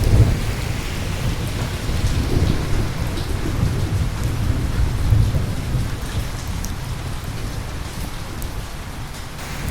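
Steady heavy rain hissing down, with small drop ticks, under a low rumble of thunder that is loudest at the start and dies away over the following seconds.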